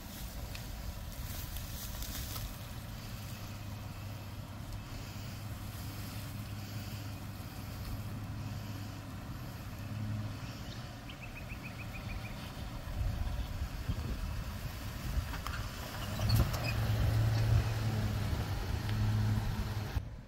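A four-wheel drive's engine running low and slow as it crawls down a steep sandy track, getting louder for the last few seconds.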